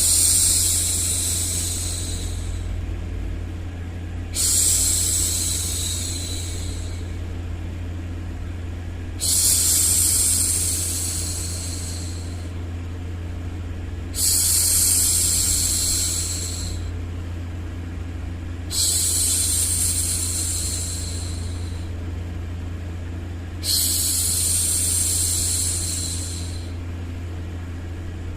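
A woman's hushing 'shhh' for soothing a baby, repeated six times about every five seconds, each one starting loud and fading away over two or three seconds, over a steady low hum.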